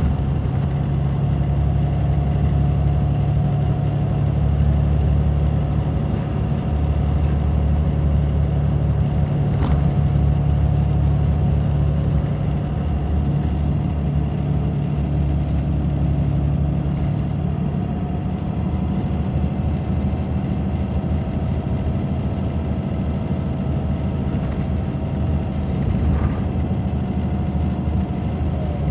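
Scania DC9 five-cylinder diesel engine of a Scania K94 city bus running steadily, a deep even hum with a thin steady higher tone above it. It eases off a little past the middle.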